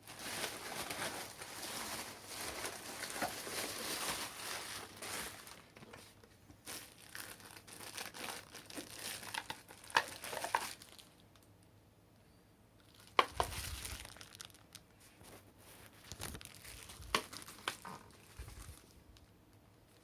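Plastic packaging crinkling and rustling as a boxed cordless vacuum and its accessories are unpacked. After about ten seconds it is quieter, broken by a few sharp clicks or knocks.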